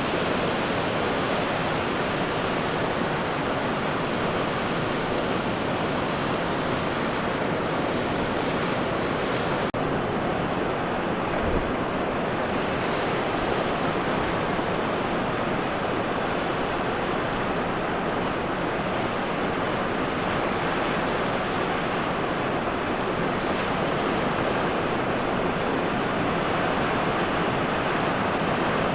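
Pacific Ocean surf breaking and washing on a beach, a steady roar of waves, with some wind on the microphone.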